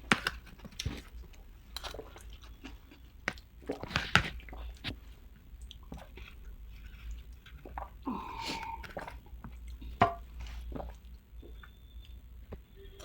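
Mouth chewing and crunching of chatpate, the crunchy spicy puffed-rice snack, in scattered irregular crunches and clicks.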